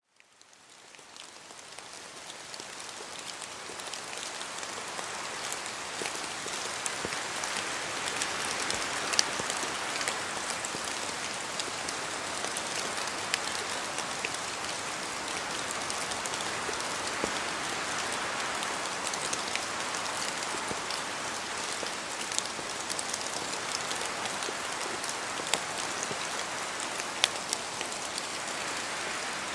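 Steady rain falling in a forest, with larger drops falling from the trees as sharp ticks scattered throughout. It fades in from silence over the first few seconds.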